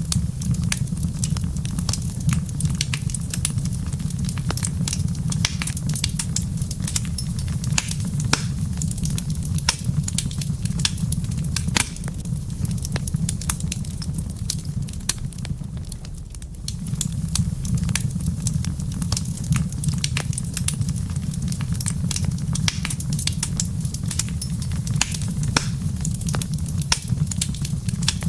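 Wood fire crackling, with frequent sharp pops and snaps over a steady low rumble that eases briefly about halfway through.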